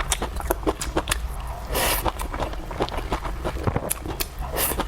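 Close-miked eating sounds: a person chewing and crunching food, an uneven run of small wet clicks and crackles, with two short hissing bursts about two seconds in and near the end.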